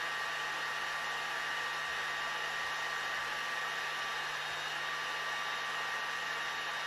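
Leister Sonara S1 hot air tool's blower running steadily, an even rush of air with a faint steady whine.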